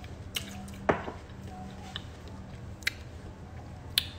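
Chewing on jarred jalapeño pepper slices: soft wet squishing mouth sounds with a few sharp clicks, over a low hum.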